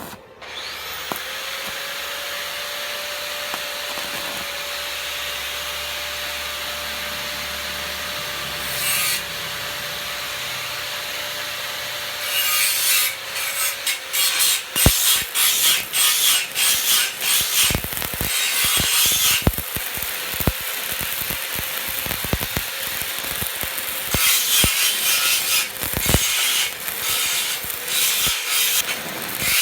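A power tool spins up and runs steadily, then grinds against metal from about twelve seconds in, in uneven rasping surges as it bites and lets off.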